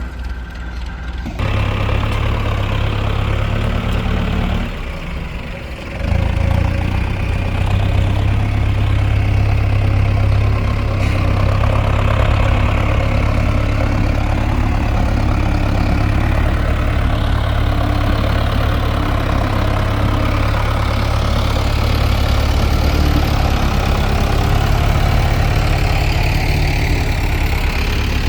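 Heavy diesel engine running steadily and loudly. It gets louder about a second and a half in and drops briefly around five seconds before coming back up.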